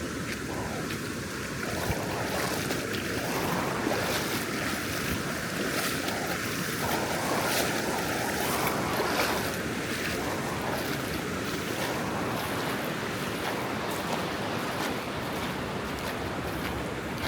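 Ocean surf breaking and washing up the beach in a continuous rush, swelling louder for several seconds from about two seconds in.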